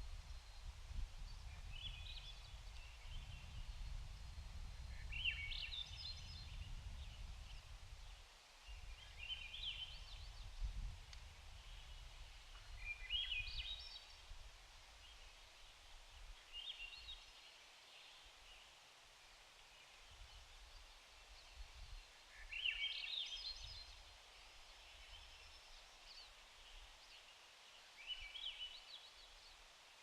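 A bird calling again and again, each call a quick burst of rising chattering notes, roughly every three to four seconds. Under the calls is an uneven low rumble that fades after the first few seconds.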